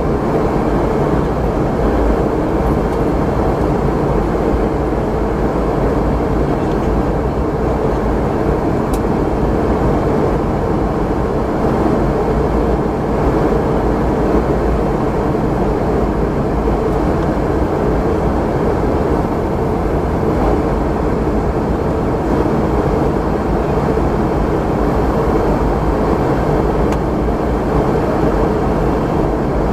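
Steady cabin noise inside a Boeing 717-200 in flight: the even drone of its rear-mounted turbofan engines and airflow, unchanging throughout.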